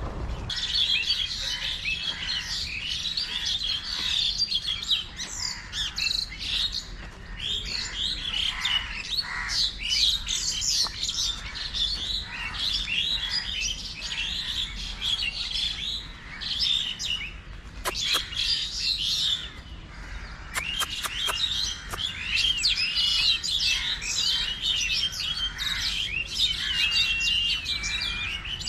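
Many small birds chirping and twittering at once, a dense, continuous chorus of quick high calls, thinning briefly a little after two-thirds of the way through.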